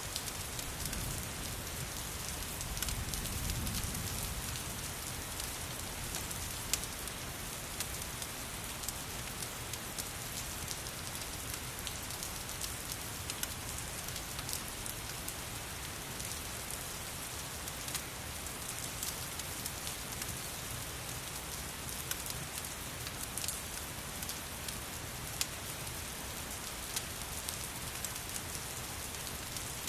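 Steady rain hissing, with scattered sharp crackles and pops from a wood fire. A low rumble swells briefly about three seconds in.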